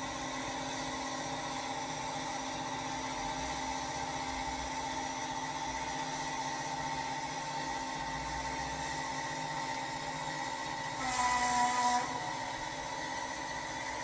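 Accurascale Class 55 Deltic OO gauge model locomotive running slowly along the layout track, giving a steady humming tone. A louder, noisier burst lasts about a second, about eleven seconds in.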